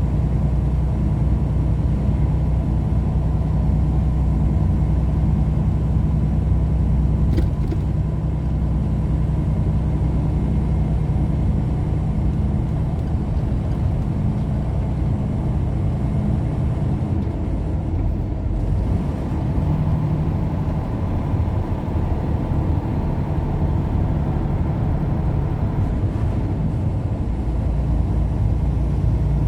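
A car driving: steady engine drone and road noise, with the engine note shifting in pitch about two-thirds of the way through and a brief click about a quarter of the way in.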